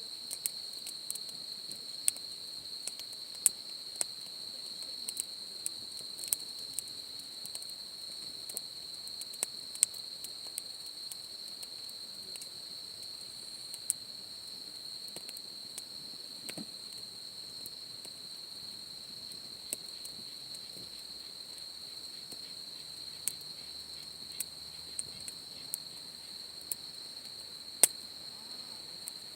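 Insects trilling in one steady, high, unbroken tone, with a wood campfire crackling and popping in irregular sharp snaps over it.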